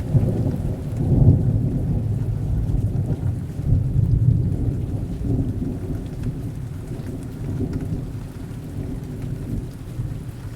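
Thunderstorm: heavy rain with a long, low roll of thunder, loudest about a second in and slowly dying away.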